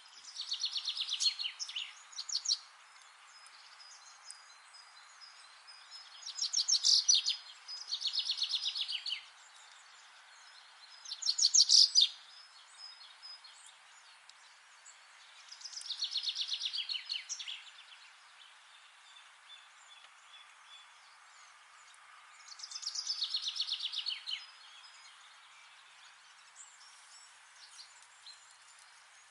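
A songbird singing, repeating a short phrase of rapid, closely spaced high notes every few seconds, about six times.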